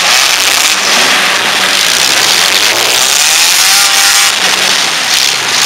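Engines of several four-cylinder compact demolition derby cars revving together in a loud, dense wash of engine noise. One engine's pitch rises and falls a couple of times around the middle.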